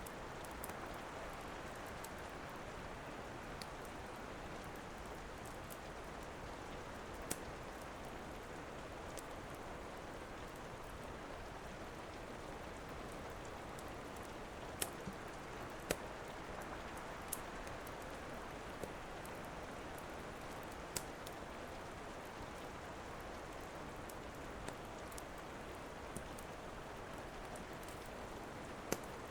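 Steady rain, with a crackling wood fire giving occasional sharp pops at irregular intervals.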